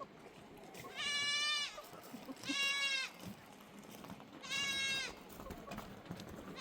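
Livestock bleating: three high-pitched bleats, each under a second long, spaced about one and a half to two seconds apart.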